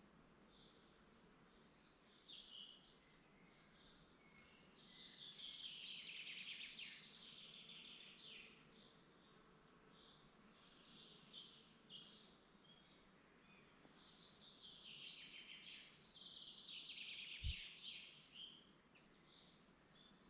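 Faint songbirds singing: two long, rapid song phrases, one about five seconds in and one near the end, with scattered short chirps from other birds in between.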